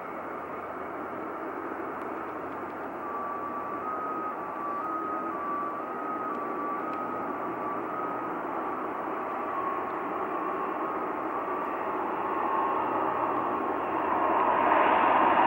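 Jet airliner engine noise, a steady rushing that grows louder over the last few seconds, with a faint tone stepping back and forth between two pitches in the middle.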